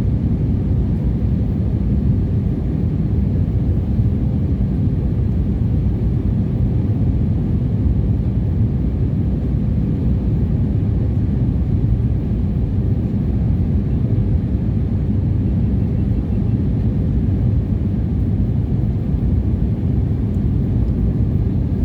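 Steady low rumble inside an Airbus A320's cabin on approach: engine and airflow noise, with the landing gear extended.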